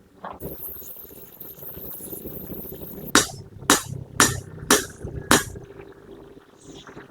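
Five sharp knocks in quick succession, about half a second apart, after a faint high hiss.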